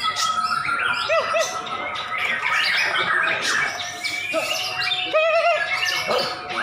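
Several caged white-rumped shamas (murai batu) singing at once in a dense, unbroken chorus of overlapping whistles, chirps and warbling trills, as in a songbird contest round.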